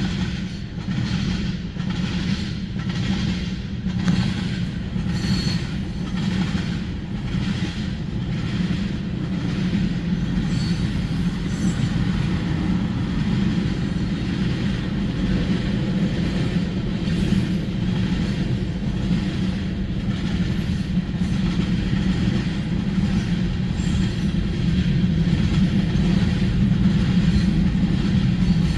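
CSX freight train rolling past with a steady low rumble. Through the first half its wheels click over rail joints about twice a second.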